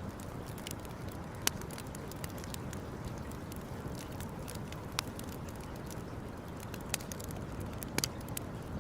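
Campfire burning: wood crackling, with sharp pops a few seconds apart and a quick double pop near the end, over a steady low rush.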